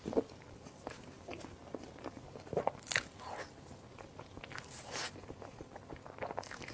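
Close-miked eating sounds: a person biting and chewing food, with a few louder bites and smacks among softer irregular mouth sounds.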